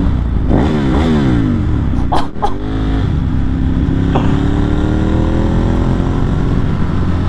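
Ducati 1198S L-twin motorcycle engine given a quick throttle rev that swings up and back down, with two sharp cracks about two seconds in. The engine then pulls with a slowly rising pitch as the bike accelerates.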